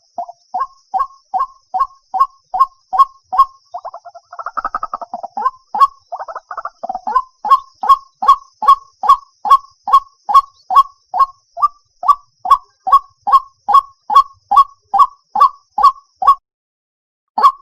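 White-breasted waterhen (chim cuốc) calling: a long series of repeated short notes, about three a second. A rougher, faster run of chattering calls comes about four to seven seconds in, and the calling pauses briefly near the end.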